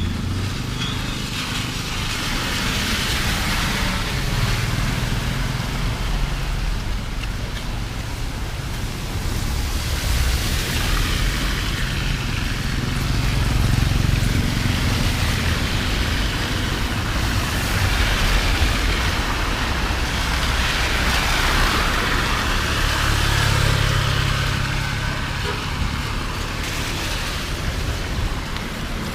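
Vehicles passing on a wet road in the rain: engine hum and tyre hiss swell and fade a few times over a steady hiss of rain.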